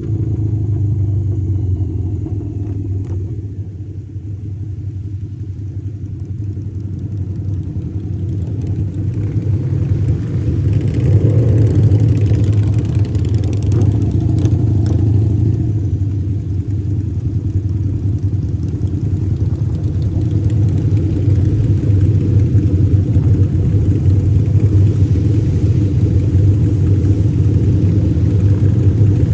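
Harley-Davidson V-twin motorcycle engine running under way. Its deep steady note grows louder over the first dozen seconds, then holds.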